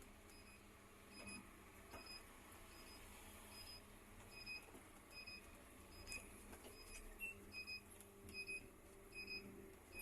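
Faint electronic warning beep repeating steadily, about once every three-quarters of a second, over a quiet steady hum.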